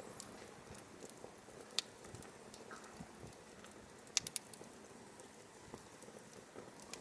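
Firewood burning with a faint steady hiss and a few sharp crackles: one about two seconds in and a quick run of three just after four seconds.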